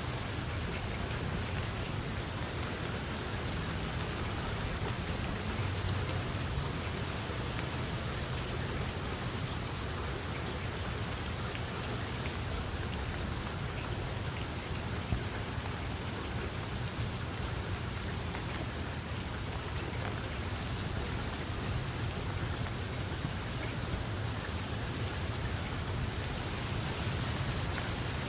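Steady rain falling, a continuous even hiss of pattering drops with a low rumble underneath.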